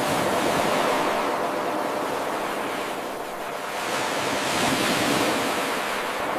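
Ocean waves washing in, a rushing hiss that swells, eases off about halfway through, and swells again.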